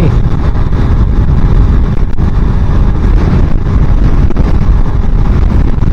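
Loud wind buffeting on a helmet microphone at riding speed on a motorcycle, a steady low rumble with the bike running underneath it.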